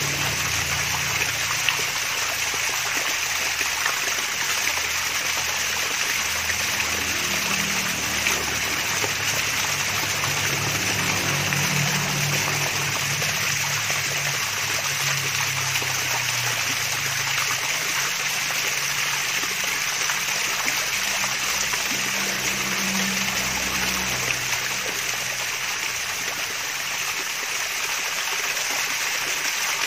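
Water from a small waterfall splashing and trickling steadily.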